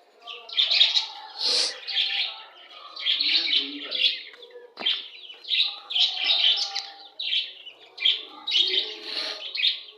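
A flock of caged Australian parrots (budgerigars) and young chicks chirping and chattering, in repeated bursts of short high calls about once a second.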